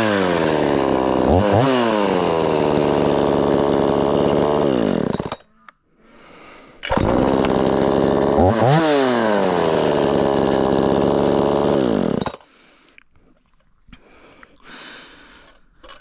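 Two-stroke gas chainsaw running at full throttle and dropping in pitch as it is loaded in a cut, twice. Each run stops suddenly, one about five seconds in and the other about twelve seconds in.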